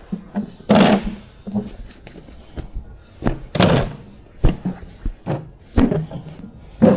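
A string of irregular thuds and knocks, about eight in seven seconds, the loudest about a second in, as equipment is handled and set down while a truck is unloaded.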